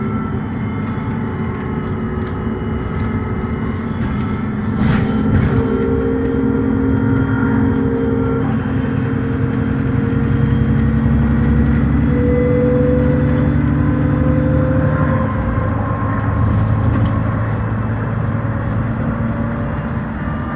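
Dennis Trident double-decker bus's diesel engine pulling steadily under way, with a steady transmission whine over it. About fifteen seconds in, the engine note drops in pitch as the revs fall.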